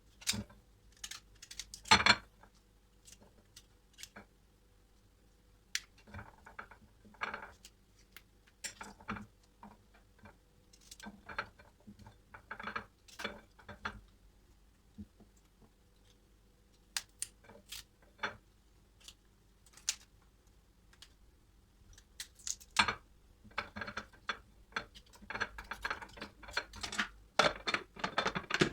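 Household objects being handled and set down: a scatter of light clicks, knocks and clatters with quiet gaps between. One sharp knock comes about two seconds in, and there is a busier run of clattering near the end.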